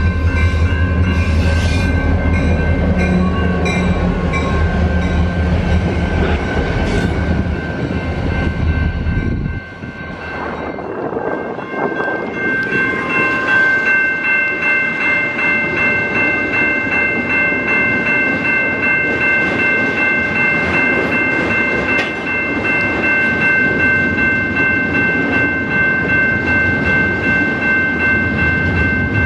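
Railroad crossing bells ringing steadily while EMD SD40-series diesel locomotives pass with a heavy low engine rumble. The rumble cuts off abruptly about ten seconds in, giving way to a double-stack intermodal train rolling through the crossing, its wheels clattering under the ringing bells.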